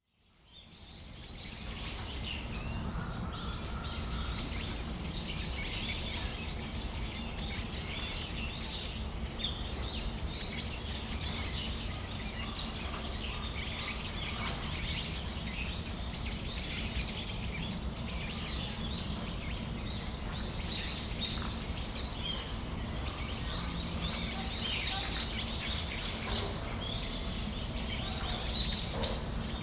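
Brown-eared bulbuls calling, many short, shrill calls overlapping throughout, over a steady low background rumble.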